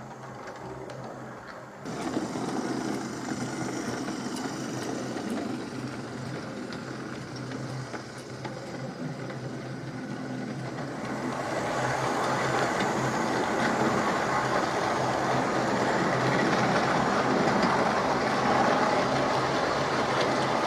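Hornby OO gauge model locomotive running on track: a steady motor hum with the rumble of wheels on the rails. It gets louder about two seconds in and again from about eleven seconds on.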